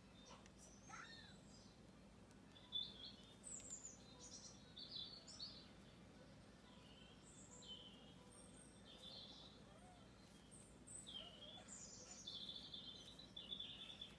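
Faint songbird chirping: many short chirps and whistled notes from several birds, coming thicker after the first few seconds. A single sharp click about three seconds in.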